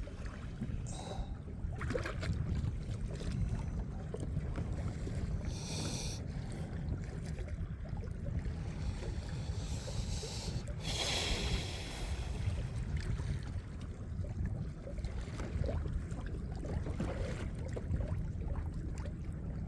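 Wind rumbling on the microphone with water moving around a kayak, and a few brief hissing bursts about six and eleven seconds in.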